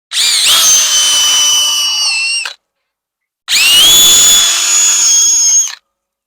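Power drill driving screws into wooden framing, in two runs of about two and a half seconds each: the motor spins up quickly to a steady whine, then stops, with a second's pause between.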